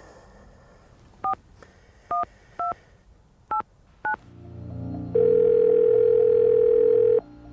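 Touch-tone phone keypad beeping as a number is dialled: five short two-note key tones at uneven intervals. Then one steady ringback tone of about two seconds, the sign that the called line is ringing.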